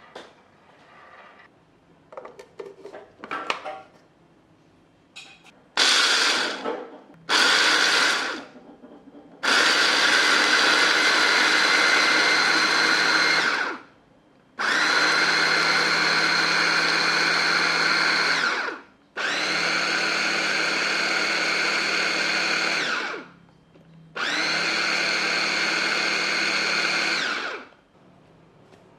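Electric kitchen blender motor switched on in two short pulses, then run four times for about four seconds each with short pauses between, its whine dropping as each run stops.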